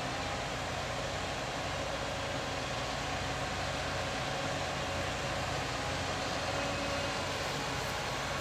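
Steady machinery running: a low rumble under an even hiss, with a faint steady hum in the middle range.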